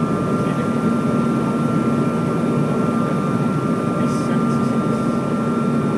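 Jet airliner engine noise: a steady rushing noise with a steady high whine running through it.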